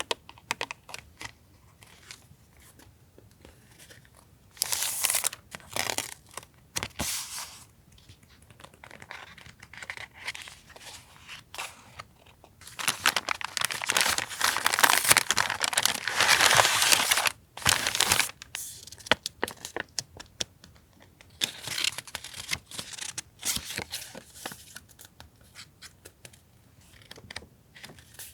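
Stationery packaging being crinkled and torn by hand, in irregular bursts. The longest and loudest run of crinkling comes a little past the middle, with shorter bursts before and after.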